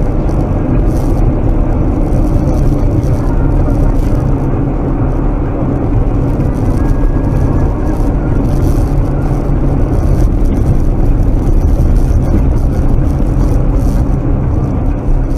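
Steady car driving noise: engine and road rumble, heavy in the low range and unbroken throughout.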